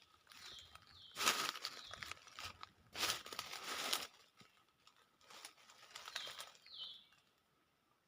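Dry rustling in several bursts, loudest about a second in and again around three to four seconds, with two groups of short, high, falling chirps, one near the start and one around six to seven seconds in.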